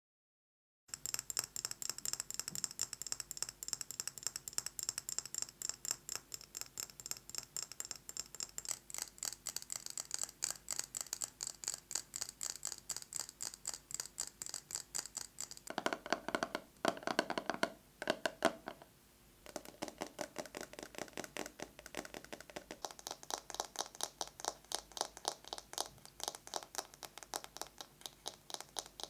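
Fast fingernail tapping on small household objects, a rapid stream of light clicks. About two-thirds of the way through, the taps turn louder and more resonant for a few seconds and stop briefly, then the quick tapping resumes.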